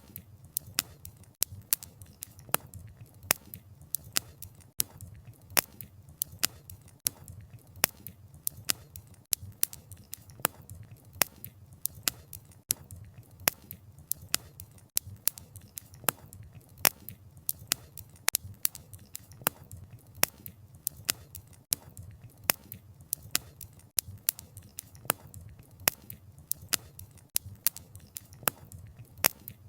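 Wood fire crackling: sharp pops and snaps of burning logs several times a second at uneven intervals, over a steady low rumble of the flames.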